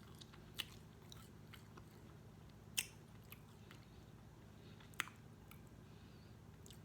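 Quiet close-up eating sounds: chewing with scattered small clicks and crunches, three sharper cracks about two seconds apart.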